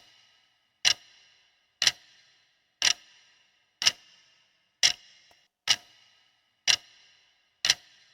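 Countdown timer's clock-tick sound effect: sharp ticks about once a second, each with a short metallic ring, nine in all.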